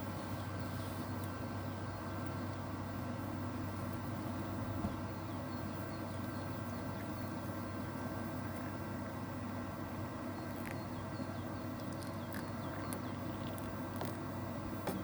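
Small birds chirping faintly and on and off over a steady low rumble of outdoor ambience.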